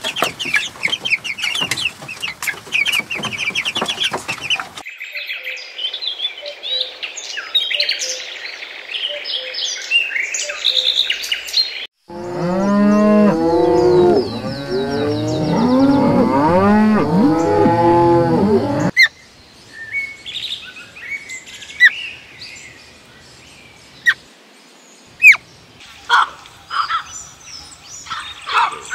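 Young chickens peeping in a flock. Then, for about seven seconds, a herd of cattle mooing over one another. Scattered bird chirps and calls follow.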